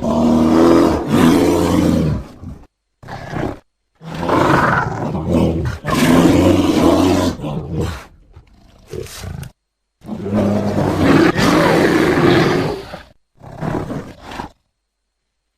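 Bear roaring in three long, rough bouts of a few seconds each, with shorter calls between; each stops abruptly into dead silence.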